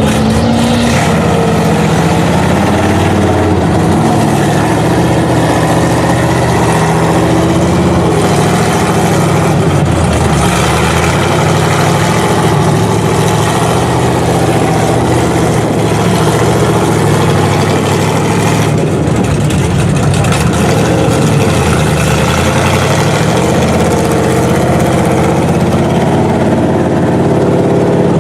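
Mud truck engines running loud and continuous, the pitch rising and falling as they rev in the mud pit.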